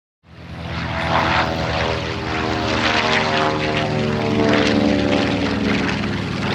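B-25 Mitchell bomber's two Wright R-2600 radial engines running loud in flight, a steady propeller drone with several engine tones. The sound cuts in suddenly just after the start.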